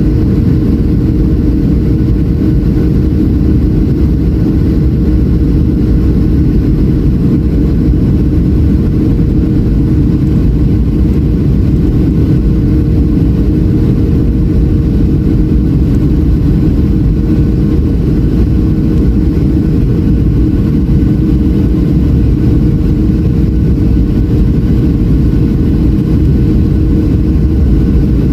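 Boeing 737 jet noise: a steady low rumble of engines and rushing air with a constant hum, holding the same level throughout.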